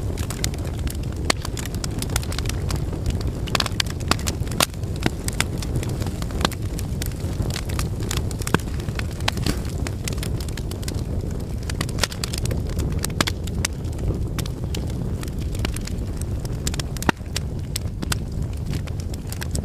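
Fire burning in a fireplace: a steady low rumble of flames with frequent irregular crackles and pops, one louder pop near the end.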